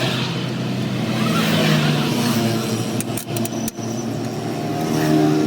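A motor or engine running steadily with a hum, its pitch stepping up slightly about a second and a half in, with a few sharp clicks about three seconds in.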